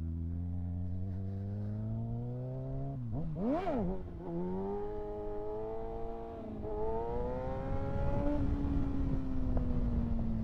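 2025 Kawasaki ZX-6R's inline-four engine accelerating under load during wheelie practice, with a sharp rev spike and fall about three and a half seconds in, as when a wheelie is attempted. The pitch climbs again, dips briefly near the middle, climbs once more, then the throttle is closed near the end and the engine note falls slowly.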